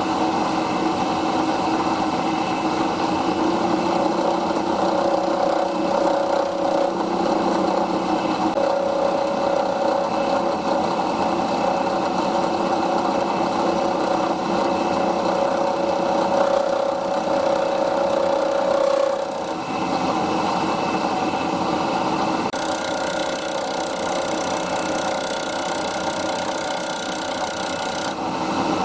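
Milling machine running with its cutter cutting a channel in an aluminium part: a steady machine hum with a rough, scraping cutting noise. The tone shifts about two-thirds of the way through, and a high whine joins near the end.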